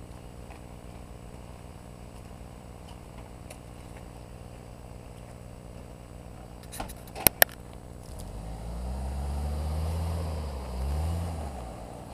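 Off-road 4x4 engine idling steadily, then revved twice, the pitch rising and falling each time, the second rev shorter. A few sharp clicks come just before the revs.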